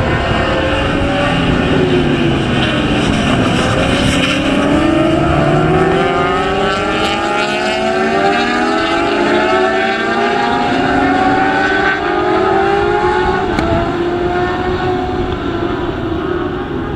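Several racing motorcycle engines going past together, their notes overlapping. The pitch drops over the first few seconds as the bikes brake and shift down, then climbs again as they accelerate away, with further rises and falls through gear changes.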